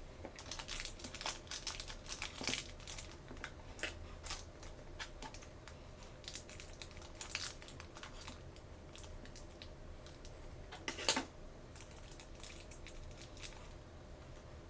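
Plastic toy packaging being handled, crinkling and tearing in irregular crackles, with a sharper rip about eleven seconds in.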